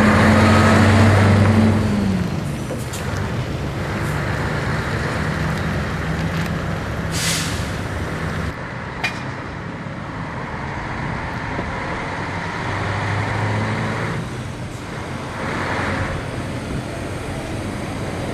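Scania 143's V8 diesel engine running, its note dropping as the revs fall about two seconds in and rising again later. A short hiss of air comes about seven seconds in.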